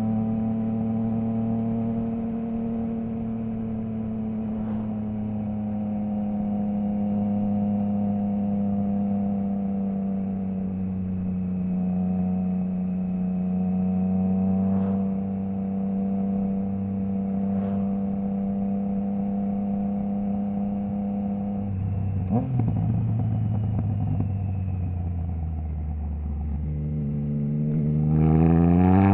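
Triumph Trident 660's inline three-cylinder engine through a baffle-less Zard stainless full exhaust, running at steady revs that slowly ease off. About two-thirds in the revs drop lower, and near the end they climb quickly and louder as the bike accelerates.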